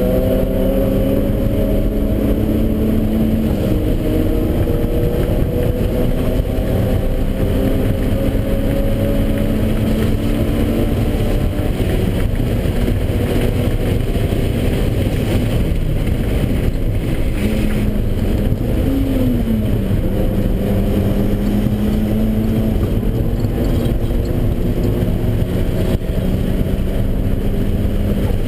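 Turbocharged Mazda Miata's four-cylinder engine, with a 2870 turbo at about 10 psi, pulling hard on track as heard inside the cabin. Its pitch climbs slowly through each gear and drops at the shifts, with a quick rise and fall in revs about two-thirds through, over constant road and wind noise.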